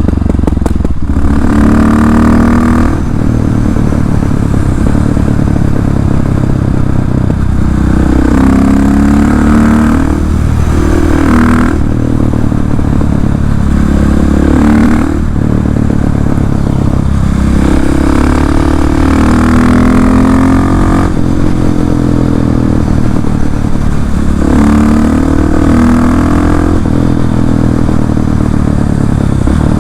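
KTM 690 SMC R's single-cylinder engine running through an Arrow exhaust with the dB-killer removed, under way. It pulls up through the revs in several stretches of acceleration, with short breaks between them where the throttle is let off.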